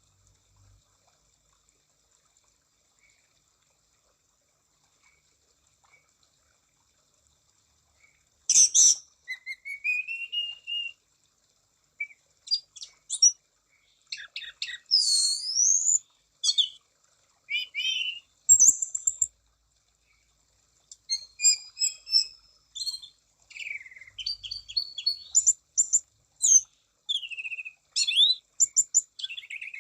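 Anis cendana (orange-banded thrush) singing: after about eight seconds of near silence, a loud, varied song of whistled glides and rapid chattering notes starts and goes on in phrases with short gaps.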